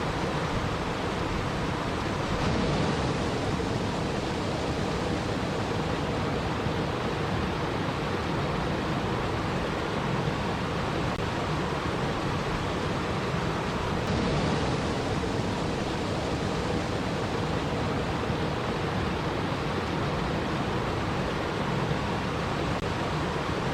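Steady, even rush of flowing water, with no breaks and only slight swells about two and a half and fourteen seconds in.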